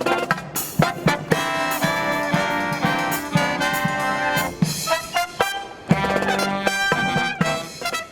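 Marching brass band playing live: trumpets and trombones holding sustained notes over regular drum hits, with a short break about six seconds in before the next loud phrase.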